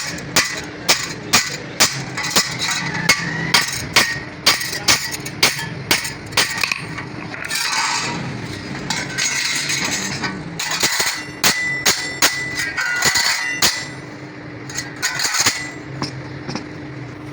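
Hammer blows on metal at a steady pace of about two a second, during work on a truck-type clutch plate. About eight seconds in, a rougher scraping noise takes over briefly, and then the strikes return, less regular.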